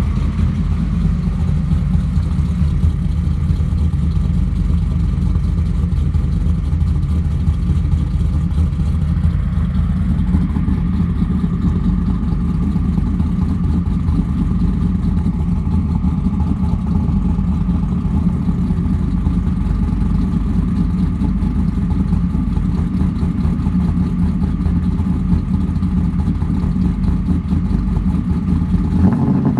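Car engine idling steadily through a freshly installed exhaust with a MagnaFlow muffler, in its first minutes after a cold start.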